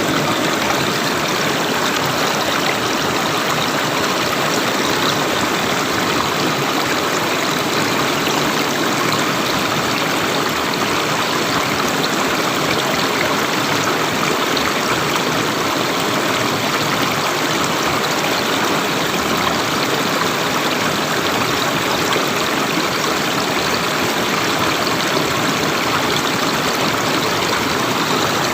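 River water flowing steadily, a constant rushing burble with no change in level.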